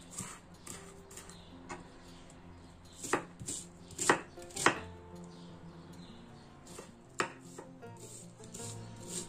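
Kitchen knife chopping an onion on a wooden cutting board: uneven knocks of the blade striking the board, the loudest three close together around the middle.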